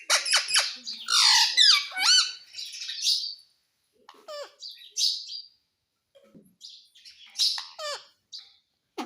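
Pet parrot squawking and chattering, with clicks and high calls that swoop up and down. Dense for the first three seconds, then scattered short calls.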